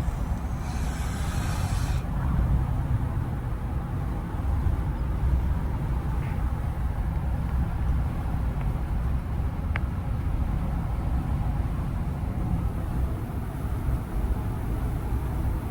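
Steady low rumble of a truck driving, engine and tyre noise heard from inside the cab, with a short hiss about a second in.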